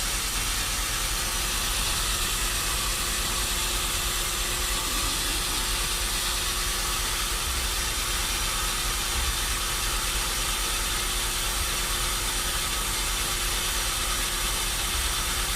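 Machinery running steadily: an even, hissing mechanical noise with a constant hum underneath.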